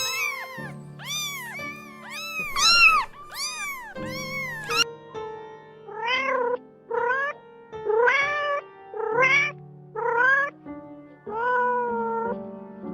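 Cat meowing repeatedly over background music: about five high, arching meows in the first five seconds, then about six lower meows that each rise in pitch, roughly one a second.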